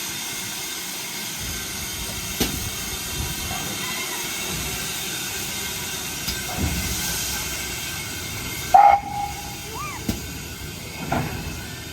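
Steam locomotive hissing steadily as it lets off steam, with a low rumble underneath. About nine seconds in comes a single short, loud tone, the loudest sound of the moment.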